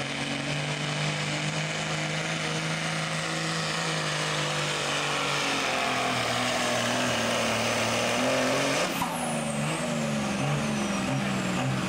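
Diesel pickup truck engine running hard during a truck pull, its note steady and then wavering in pitch. About nine seconds in there is a sharp burst, followed by a high whistle that falls in pitch.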